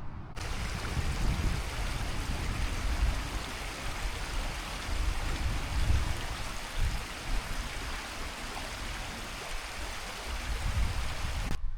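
Stream water rushing steadily, with an uneven low rumble underneath; it cuts in sharply just after the start and cuts off just before the end.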